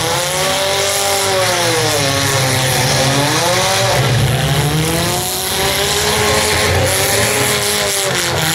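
Demolition derby cars' engines revving hard. Several engines rise and fall in pitch by turns, overlapping each other.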